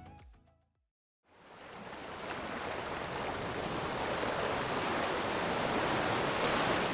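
The last of the music fades away, and after a moment of silence a steady rushing of ocean surf fades in about a second in and holds.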